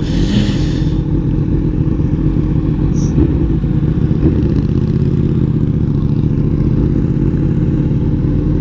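Motorcycle engine running steadily under way, with a brief hiss in the first second.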